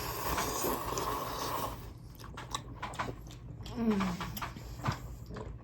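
Instant ramen noodles slurped for about two seconds, then chewing with soft wet clicks and a brief hum.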